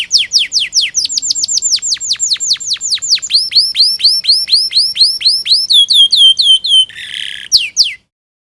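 Domestic canary singing a long rolling song: fast runs of high down-slurred whistled notes, about eight a second, switching to a new repeated phrase several times. A short harsh buzzy phrase comes near the end, and the song cuts off suddenly just before the end.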